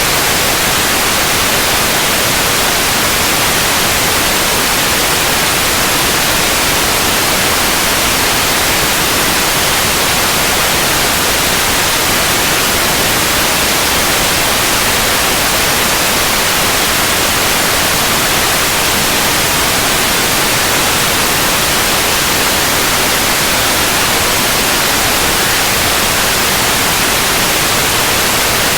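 Steady, unbroken white noise: an even hiss spread across the whole range with no change or events.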